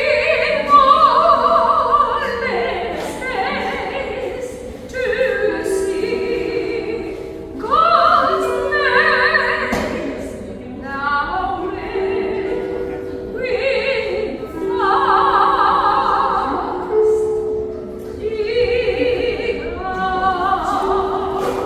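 Music: a singing voice in phrases with strong vibrato, over held ringing notes from a lyre accompaniment.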